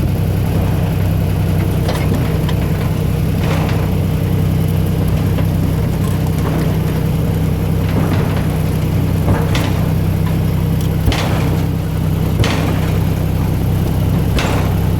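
Steady low engine drone of the small tourist train, heard from aboard, with a few short clacks now and then.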